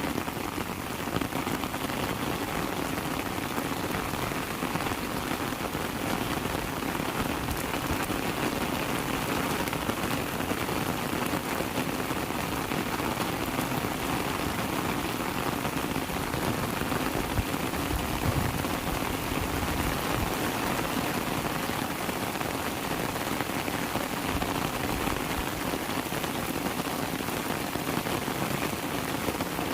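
Heavy rain falling steadily, an even hiss of countless drops. A brief low rumble comes a little past the middle.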